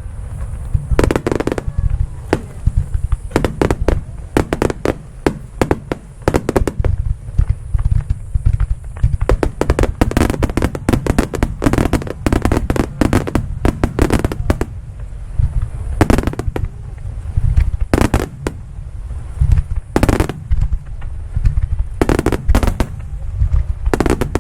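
Fireworks display: aerial shells bursting in rapid succession, dozens of sharp reports one after another over a continuous deep rumble.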